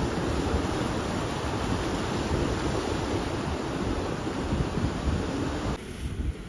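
Ocean surf washing up the beach, with wind buffeting the microphone. Near the end it cuts abruptly to a quieter, duller rushing.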